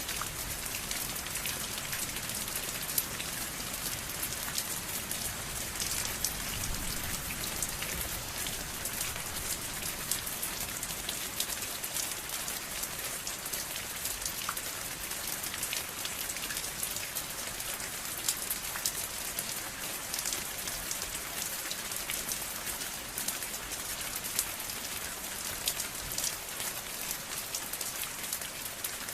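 Steady rain falling on a surface, an even hiss with many separate drop hits pattering through it.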